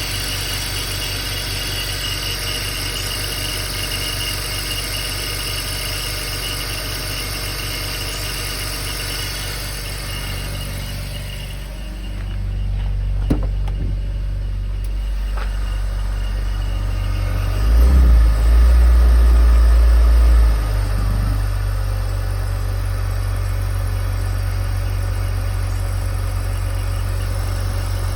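BMW X3 3.0i's straight-six idling, with a high chirping, ringing noise over it that occurs only at idle and goes away once the engine is warm; the owner suspects the timing chain, an accessory, the A/C compressor or the water pump. The chirp fades about eleven seconds in as the engine note grows louder and lower, with a single click and a couple of seconds of loud low rumble before a steady idle carries on.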